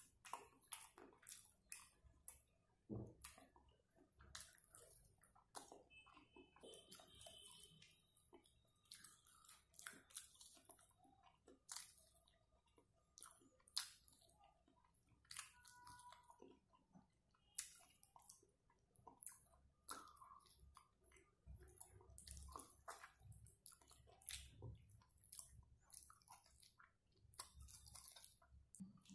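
Close-up chewing and biting as a man gnaws meat off a pepper-fried chicken leg bone, with many short, wet clicks of mouth and teeth coming irregularly.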